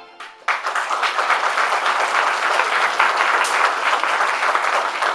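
Audience applauding, many people clapping at once. It breaks out about half a second in and keeps up at a steady level.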